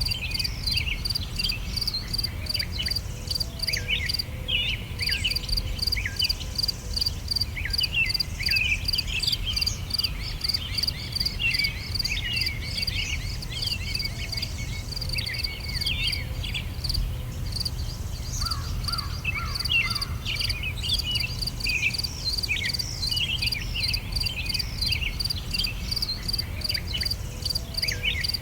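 Summer bird chorus: several songbirds singing short, quick downward-sweeping notes, over an insect chirping in an even pulse about three times a second, with a steady low rumble underneath.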